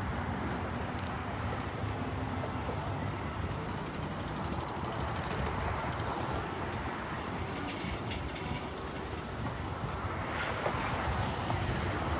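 Steady outdoor background noise with wind rumbling on the phone's microphone.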